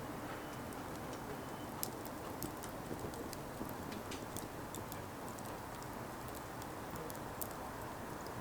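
Burning firewood crackling: irregular sharp snaps and pops over a steady hiss of the fire.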